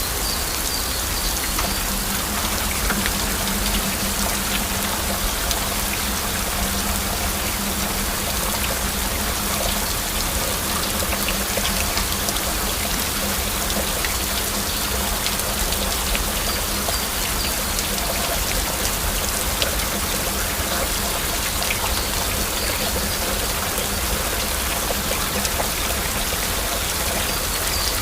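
Steady heavy rain: a dense, even hiss with scattered individual drops ticking through it.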